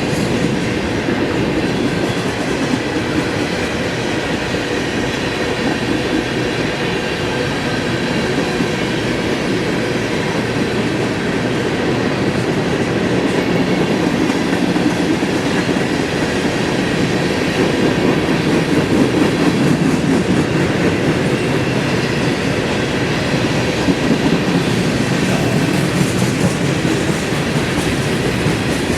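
Norfolk Southern freight train's cars rolling past, a loud continuous rumble and clatter of steel wheels on the rails that swells slightly about two-thirds of the way through.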